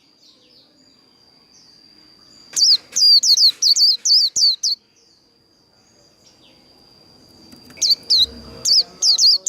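White-eye (vành khuyên) singing its fast 'líu' song: rapid series of short, high, down-slurred whistled notes in two bursts, about two and a half seconds in and again near the end, over a faint steady high tone.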